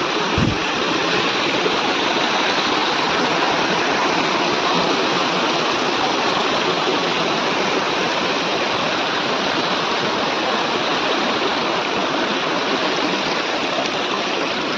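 Steady, loud rush of water pouring down a waterfall.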